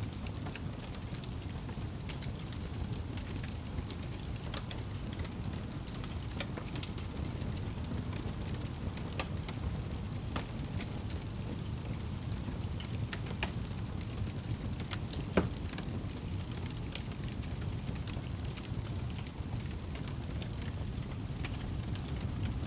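Crackling wood fire with rain: a steady low rumble of rain under scattered sharp crackles and pops, one louder pop about two-thirds of the way through.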